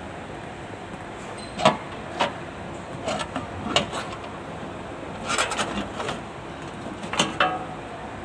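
A series of sharp clicks and knocks at irregular intervals, some in quick pairs or clusters, over steady background noise.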